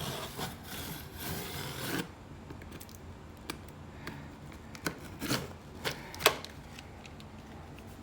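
Cardboard packaging being handled as a box is opened: rubbing and scraping for about two seconds, then a few scattered knocks and clicks, the sharpest about six seconds in.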